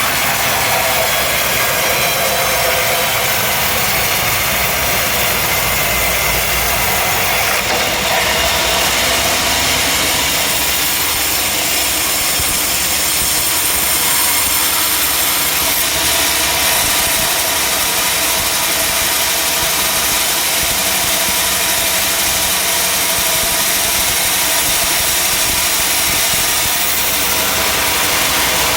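Sawmill machinery running steadily, a loud, even mechanical noise that grows brighter about eight seconds in.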